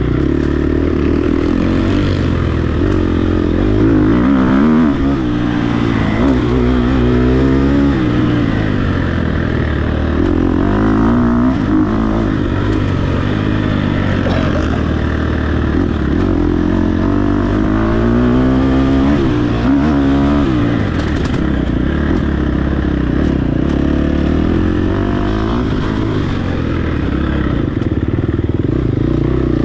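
Dirt bike engine running hard, its pitch rising and falling again and again as the rider works the throttle and gears through an off-road trail.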